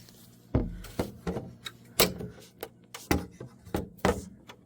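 Irregular knocks and clicks as a CRT television's back housing and circuit board are handled and tugged during disassembly, with a few louder knocks spread through.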